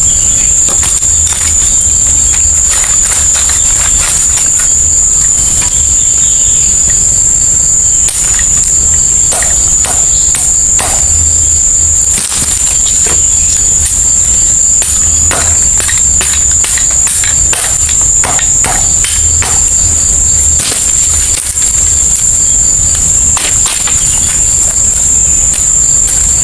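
Insects chirring in a steady, high-pitched drone, with scattered clicks and knocks and a low rumble underneath.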